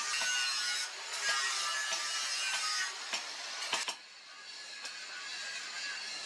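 Abrasive work on a steel machete blade: long rough scraping strokes of a second or two each, with sharp clicks and knocks in between.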